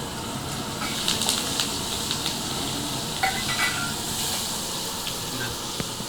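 Freshly added onions and green chillies sizzling in hot oil in a pan: a steady hiss with a few light clicks.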